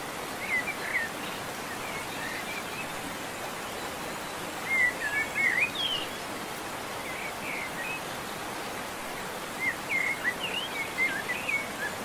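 Birds chirping in several short runs of quick, twisting calls over a steady rushing outdoor background.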